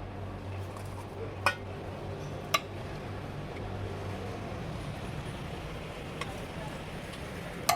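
Steady low hum of vehicle engines and traffic at a roadside stall, with sharp clinks about one and a half and two and a half seconds in and again near the end.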